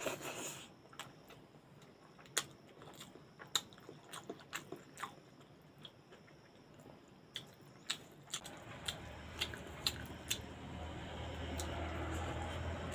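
Close mouth sounds of someone eating soft rice and greens by hand: chewing, lip smacks and small wet clicks, scattered irregularly. About two thirds of the way in, a steady low hum fades up and grows louder toward the end.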